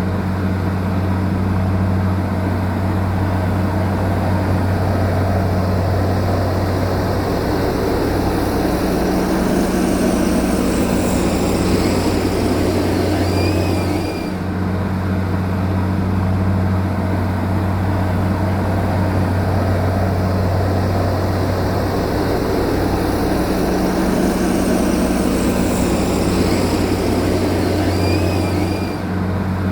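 Steady low drone of a heavy machinery engine, running at an even speed with no revving. The same stretch repeats about every fifteen seconds.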